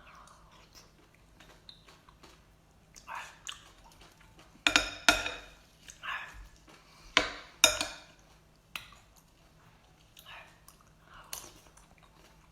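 Utensils clinking and clattering against a dish of mixed mud snails, in scattered short knocks with a cluster of louder clatters in the middle.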